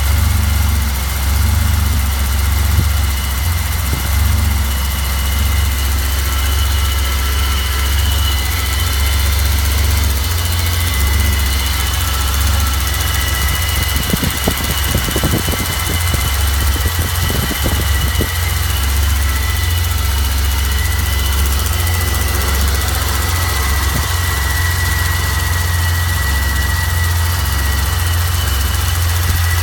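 BMW 735i's M30 straight-six idling steadily after a cold start, with a thin, steady high-pitched whistle over the engine note. The owner takes the whistle for a possible vacuum leak, and suspects the valve cover gasket or the intake manifold gaskets.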